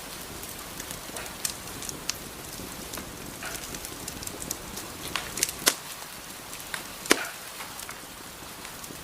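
Wood fire burning in a fireplace: a steady soft hiss with irregular sharp crackles and pops, two of them louder just past the middle.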